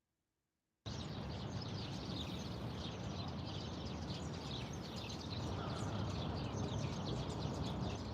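A chorus of many small birds chirping over steady low background noise. It cuts in abruptly about a second in, after silence.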